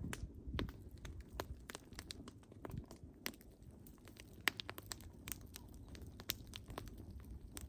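Wood fire crackling: irregular sharp pops and snaps from the burning logs over a low, steady rumble of flame, with a louder pop about four and a half seconds in.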